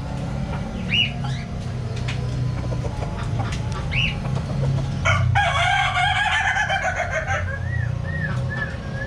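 Birds calling over a steady low hum: short high chirps now and then, and about five seconds in one long, loud call of about two seconds, followed by a quick string of short chirps.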